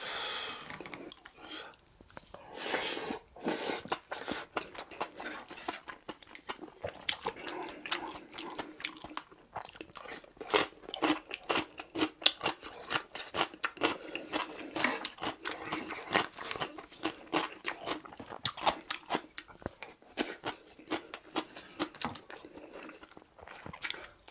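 Close-miked chewing and mouth sounds of a man eating spoonfuls of rice with braised tofu: a steady run of short, irregular smacks and clicks.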